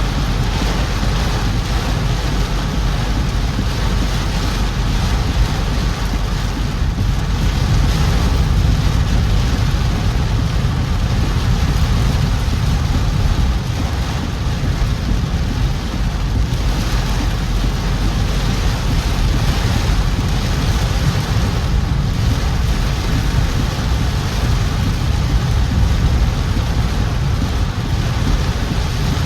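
A car driving through heavy rain: a steady rain hiss over a low road and engine rumble.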